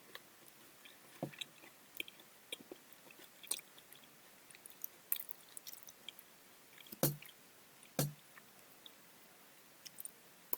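A person chewing food quietly, with scattered small mouth clicks and two louder soft knocks about a second apart past the middle.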